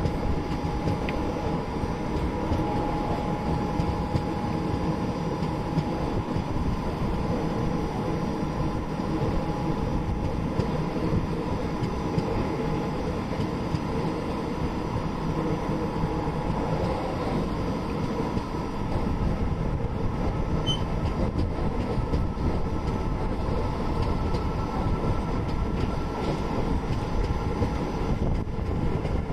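Steady running noise of an Indian Railways passenger train in motion: a continuous rumble and rattle of wheels on track, with a faint steady hum held above it.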